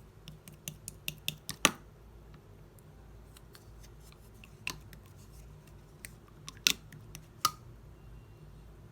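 Sky-blue slime being squished and poked by hand, giving sharp popping clicks: a quick run of them in the first two seconds, then a few spaced pops.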